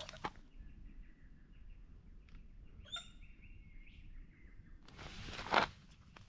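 Birds calling faintly in the bush, short repeated notes with one sharper chirp about three seconds in. A brief rustle of handled gear comes near the end.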